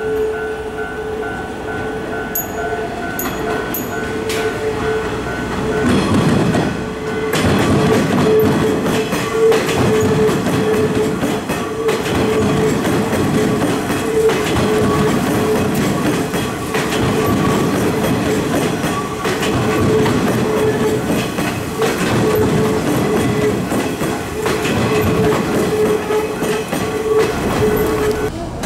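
Hanshin 9000-series electric train running past at low speed over the station's points, its wheels clattering over the switches and rail joints from about six seconds in. A steady electrical hum runs under it throughout.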